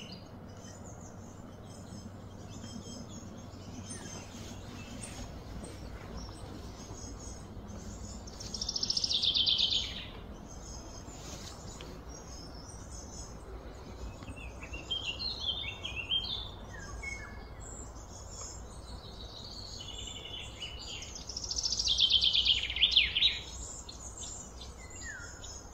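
Birds calling outdoors over a steady background hum. Scattered chirps run throughout, with two louder falling phrases, each about a second and a half long: one about nine seconds in and one near twenty-two seconds.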